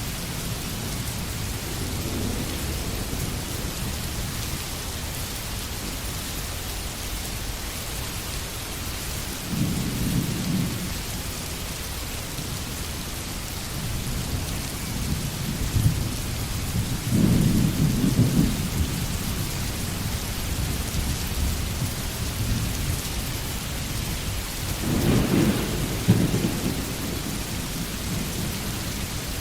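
Steady heavy rain hissing on forest foliage, with low rumbles of thunder swelling up three times.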